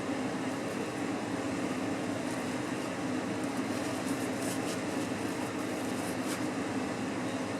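Small car's engine running steadily, a constant mechanical drone with a few faint light ticks in the middle.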